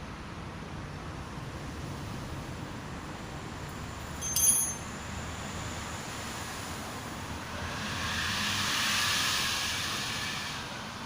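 A single short, ringing metal clink about four seconds in, over steady background noise, followed by a hiss that swells and fades over about three seconds near the end.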